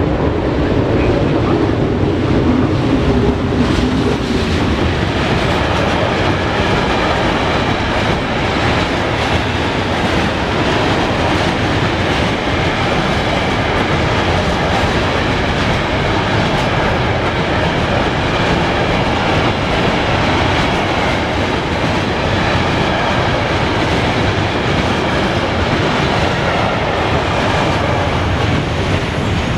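Freight train passing through a station, its wagons' wheels rolling over the rails in a loud, steady rush.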